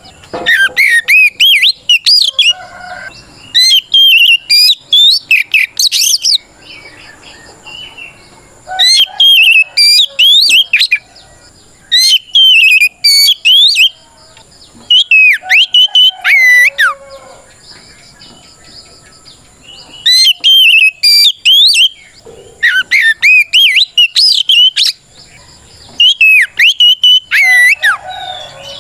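Oriental magpie-robin (kacer) singing loudly in bouts of rapid, swooping whistled notes, each bout about two seconds long with short pauses between. This is its full challenging song, calling out a rival.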